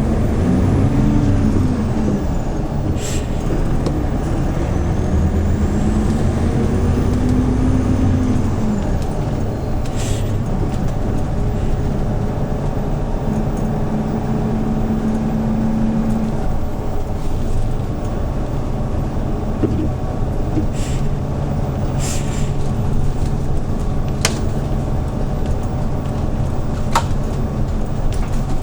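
Hyundai New Super Aero City CNG city bus engine, heard from on board the bus. The engine pitch rises and falls twice in the first nine seconds as the bus accelerates and shifts, then it runs steadily. Several short, sharp hisses and clicks stand out over the drone.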